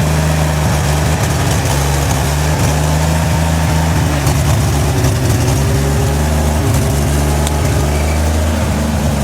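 Engine of an old CMP (Canadian Military Pattern) army truck idling steadily.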